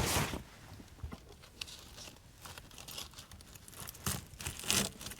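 Light crinkling and tearing handling noises with scattered small clicks, then two louder knocks near the end, from food and wrappings being handled in a small space.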